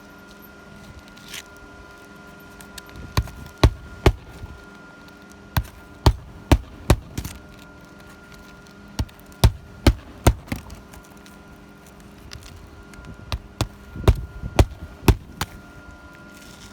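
Hammer driving roofing nails into asphalt shingles during a shingle repair: sharp knocks in quick runs of three to five, about two a second, with short pauses between runs.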